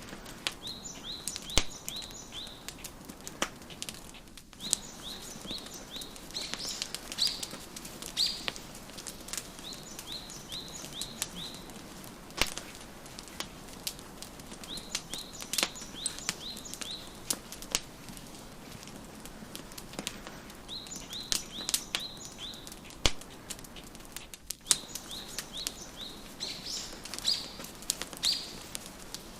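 Wood fire crackling with frequent sharp pops, over songbirds chirping in bouts of quick repeated notes that come back every few seconds.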